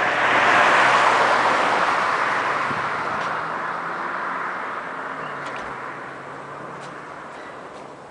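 A vehicle passing close by, loudest about a second in and then fading slowly away.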